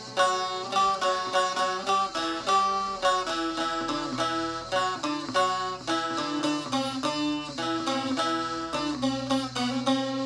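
Instrumental folk melody on a plucked string instrument: a quick, continuous run of picked notes.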